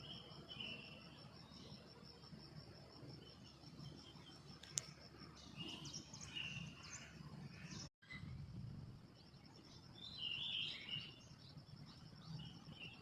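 Faint ambience of an insect, cricket-like, trilling steadily at a high pitch, with scattered short bird chirps, a single click about five seconds in and a brief dropout about eight seconds in.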